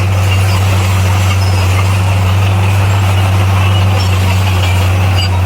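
Bulldozer's diesel engine running steadily under work, a deep even drone with no change in pitch.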